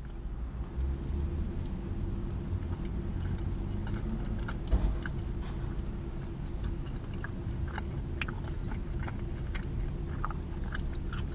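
A person chewing a mouthful of sausage pizza, with small wet clicks and smacks, over a steady low hum. One louder bump comes about five seconds in.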